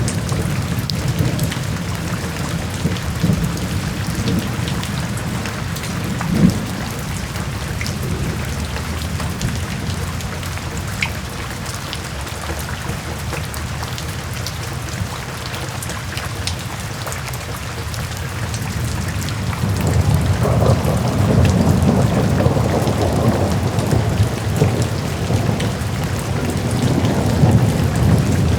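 Steady heavy rain with thunder rumbling low underneath. About two-thirds of the way through, a longer, louder roll of thunder builds and keeps going to the end.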